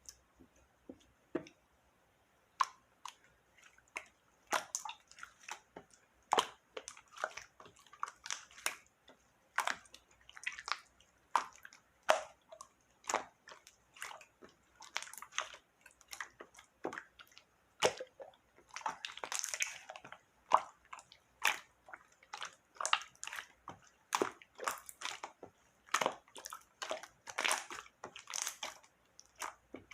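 Slime being squished and pressed by hand, giving irregular wet, sticky pops and squelches, with a longer squelching run about two-thirds of the way through.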